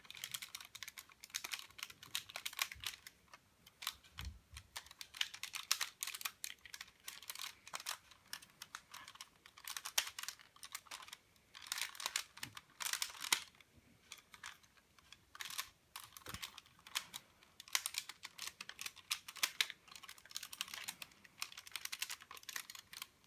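Plastic parts of an Optimus Prime Transformers toy figure clicking and clattering as they are handled and folded into truck mode: many quick, irregular clicks with short pauses.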